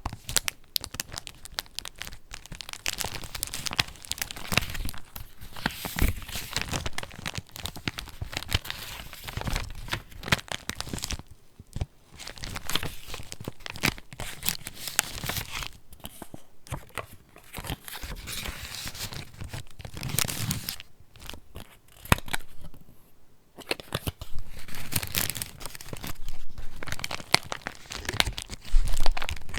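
Pages of a handmade junk journal being handled and turned: paper rustling and crinkling in quick, uneven bursts, with a few short pauses.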